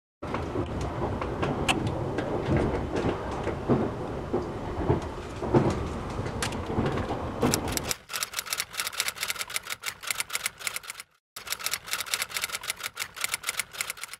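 Moving train heard from inside the carriage, a steady rumble with scattered knocks and clicks, for about eight seconds. It cuts to rapid typewriter-style key clicks, several a second, broken by a short pause a few seconds later.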